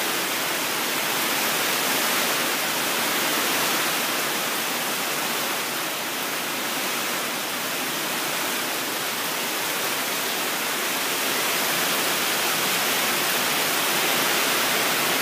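Heavy typhoon rain falling, a steady, even hiss with no let-up.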